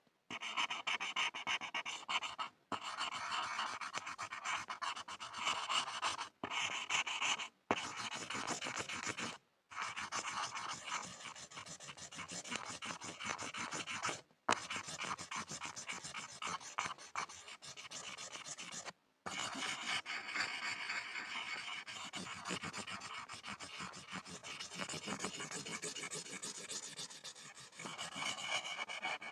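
Pencil scribbling on a board: continuous scratchy rubbing broken by about half a dozen short pauses.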